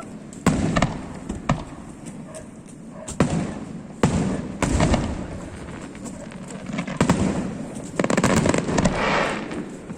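Aerial fireworks bursting: a string of sharp booms, each trailing off in a rolling echo, and a stretch of fast crackling about eight seconds in.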